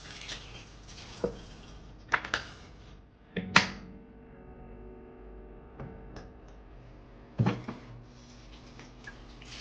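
A series of sharp knocks and clatters of household objects being handled and set down, about eight in all, the loudest about three and a half seconds in.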